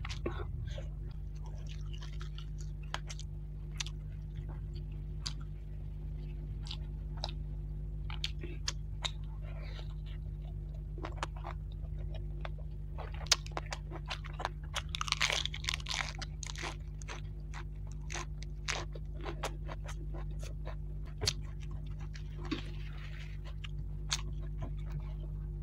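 Close-miked chewing and crunching of fried rohu fish, with many sharp, irregular mouth clicks and smacks and a denser burst of crunching about halfway through. A steady low hum runs underneath.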